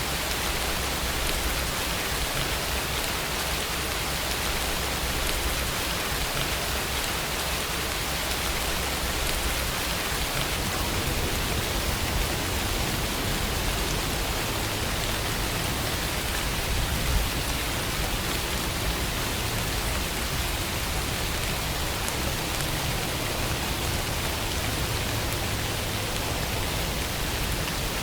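Steady rainfall, an even hiss of rain falling on surfaces, with a single faint tap about two-thirds of the way through.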